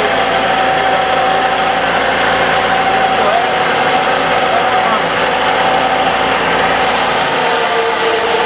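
Wood lathe running steadily with a constant motor hum. A harsher high hiss joins about seven seconds in.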